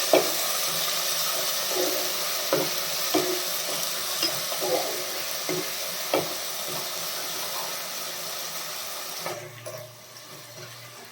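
Onions and ginger-garlic paste sizzling in hot oil in a kadai as they are stirred, with a spatula knocking against the pan now and then. The sizzle drops much quieter about nine seconds in.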